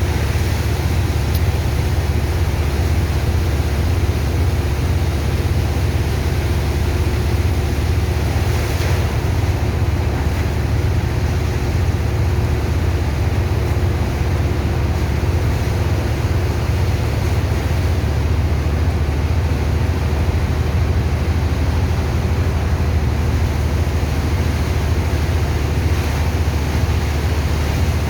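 Sand-dredging pump machine running steadily, a loud low engine drone with a rushing, wave-like water noise over it.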